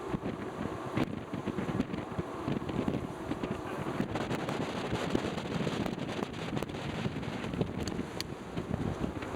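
Wind buffeting the microphone on the deck of a moving ship: an uneven, gusty rush of noise, with a few brief crackles.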